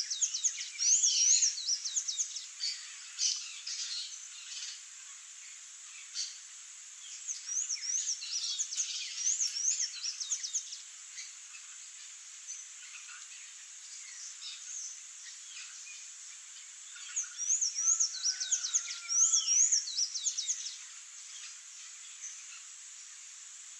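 Songbirds singing and calling: three bursts of quick, high, squeaky repeated notes, one at the start, one about seven seconds in and one about seventeen seconds in, with scattered chirps between.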